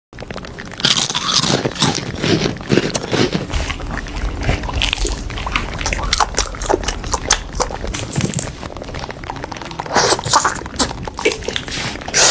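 Close-miked chewing and biting of a Korean corn dog, crisp batter crunching with wet mouth sounds, in irregular bursts with louder crunches about a second in and again near the end.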